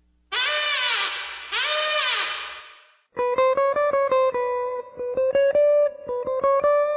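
Cartoon sound effects: two pitched tones that each rise and then fall over about a second, then, after a short gap, a rapid run of plucked, guitar-like notes.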